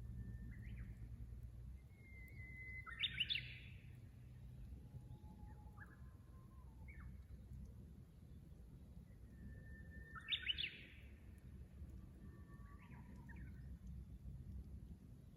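Japanese bush warbler (uguisu) singing its 'hoo-hokekyo' song twice: a long held whistle that breaks into a quick loud flourish, about three seconds in and again about ten seconds in. Fainter short calls sound between the songs over a steady low rumble.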